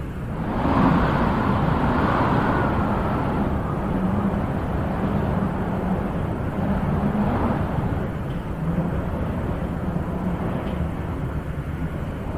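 Wind blowing in gusts, a steady rushing that swells about a second in and slowly eases off, with a faint low hum underneath.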